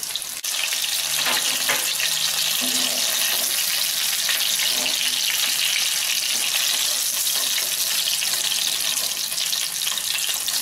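Breaded fish fingers shallow-frying in oil in a pan: a steady sizzle that gets louder about half a second in.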